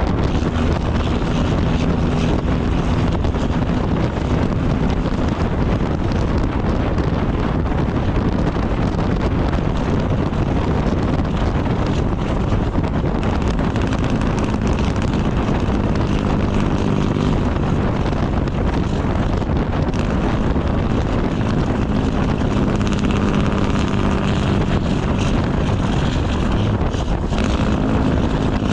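Straight-piped Cummins ISX diesel in a Kenworth W900 running under way: a loud, steady exhaust drone.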